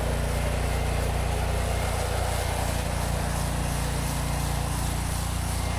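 Petrol engine of an 8 gpm pressure washer running steadily at constant speed, with a steady hiss over it.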